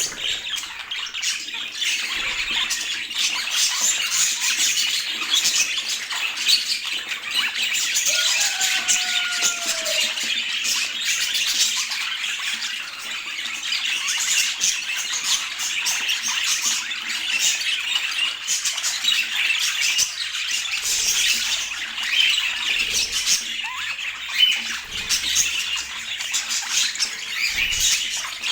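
Budgerigars chattering and warbling, a continuous dense stream of high chirps and squawks.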